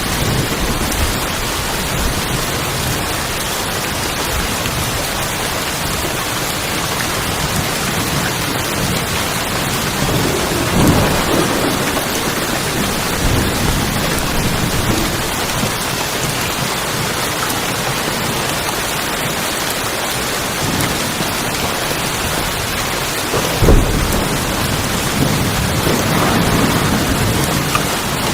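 Heavy rain drumming steadily on tin roofs, with low thunder rumbles rising out of it about ten seconds in and again near the end, and one sharper thunderclap about two-thirds of the way through.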